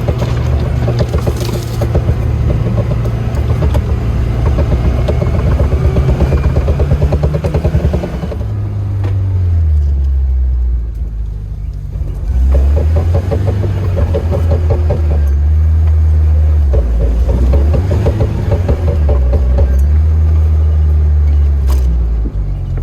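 Lada Niva's engine running under load, a low drone that eases off and picks up again a couple of times.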